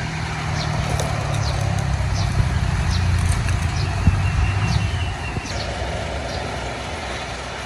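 Boat engine running steadily at low revs, easing off about five seconds in, with short high chirps scattered over it.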